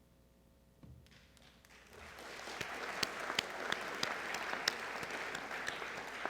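Audience applauding, building up about two seconds in, with a few sharp individual claps standing out from the steady clapping.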